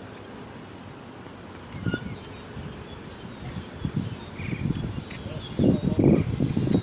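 Strong wind gusting and buffeting the microphone in irregular low rumbles that build up and are strongest near the end. Under it there is a steady thin high tone and a few short chirps, typical of insects.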